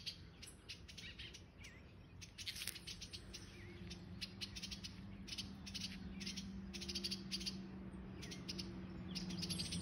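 Adult birds giving harsh, rapid rattling alarm calls again and again, mobbing a person who is close to their fledgling. A steady low hum runs underneath from about three seconds in.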